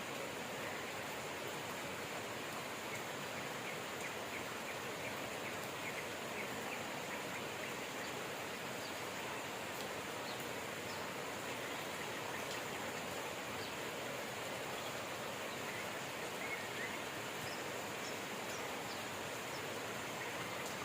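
Steady rain falling, with small birds chirping faintly and briefly now and then.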